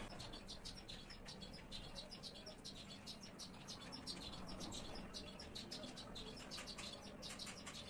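Small birds chirping in the background: many short, high chirps in quick irregular succession, faint.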